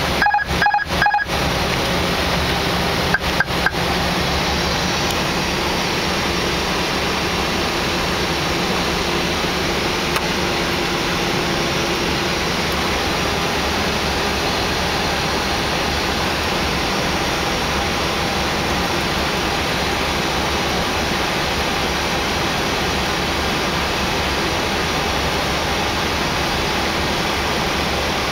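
Steady rushing noise inside an Airbus A319 flight deck in flight: airflow over the fuselage and the air-conditioning hiss. There are a few short dropouts in the first four seconds.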